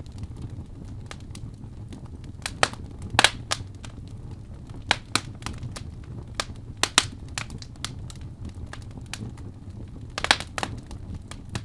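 Wood fire crackling and popping in a fireplace: irregular sharp snaps over a steady low rumble of the flames, with a few louder pops about three, five, seven and ten seconds in.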